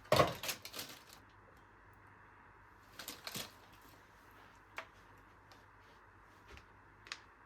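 A brief clatter of objects being handled at the start, a short rustling scrape about three seconds in, and a few light clicks and taps, over a faint steady room hum.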